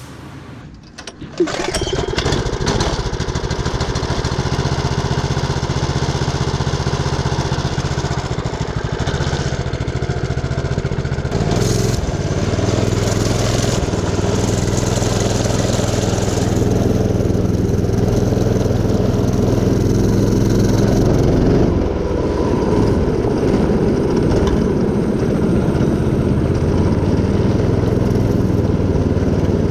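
Mini bike's small gas engine starting about a second in, then running, its speed stepping up and down a few times as it is throttled.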